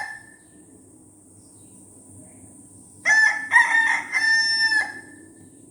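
Rooster crowing: the end of one crow dies away at the start, and a full cock-a-doodle-doo comes about three seconds in, its last note held longest.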